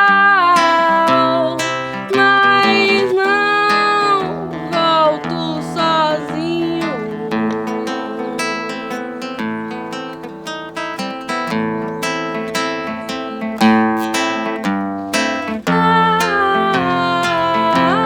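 Acoustic guitar playing plucked notes and strummed chords in an instrumental passage of a song. In the first few seconds a woman's voice sings long held notes without words.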